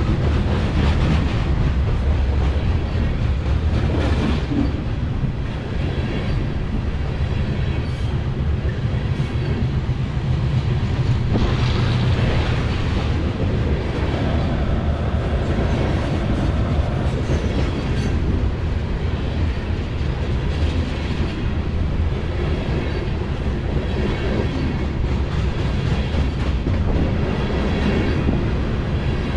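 Grain train of covered hopper cars rolling past, a steady rumble with the wheels clicking over rail joints now and then.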